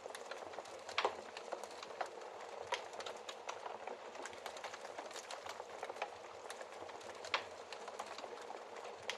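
Wood fire crackling in a fireplace: a soft steady hiss under many small, irregular crackles, with two louder pops, one about a second in and one about seven seconds in.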